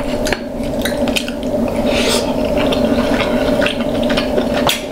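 Close-up wet chewing and lip-smacking of king crab meat in butter sauce: a run of irregular soft clicks and squelches, over a steady low hum.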